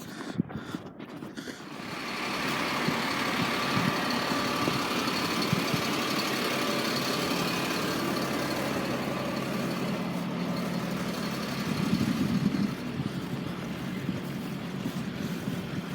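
A motor vehicle's engine running steadily. It comes up over the first two seconds and then holds.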